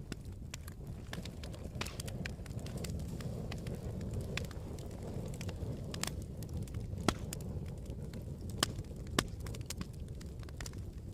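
Campfire crackling: a steady low rumble of the burning fire with irregular sharp pops and snaps, three of them louder about two-thirds of the way through.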